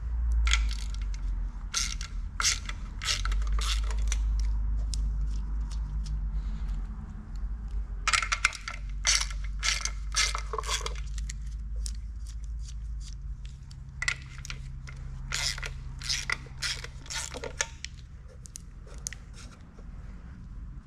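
Metal tools and engine parts clinking, clicking and scraping in bursts as parts are fitted during an engine rebuild, over a low steady hum that fades about two-thirds of the way through.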